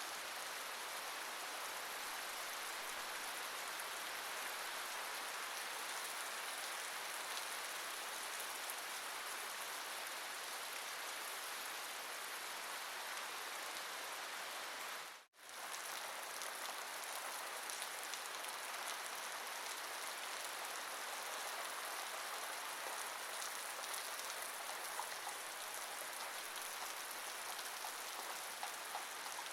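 Steady rain falling, an even hiss of drops that dips suddenly to silence for a moment about halfway through before returning.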